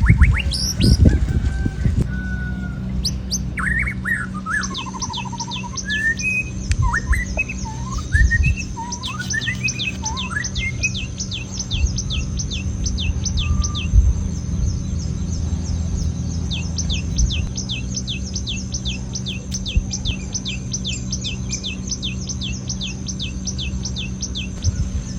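Birds calling: two long runs of rapid, high, falling chirps, with a few lower rising calls between them, over a steady low hum. A few thumps come in the first two seconds.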